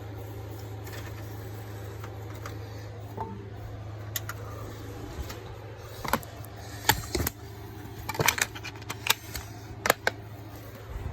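A steady low hum with a run of sharp clicks and light clattering in the second half.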